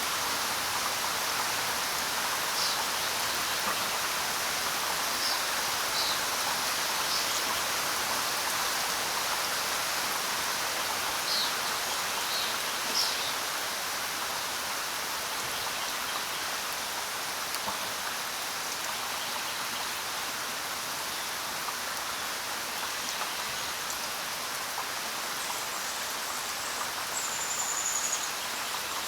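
Steady rain falling on the ground, an even hiss of many drops. A few brief high-pitched sounds stand out over it here and there, one of them near the end.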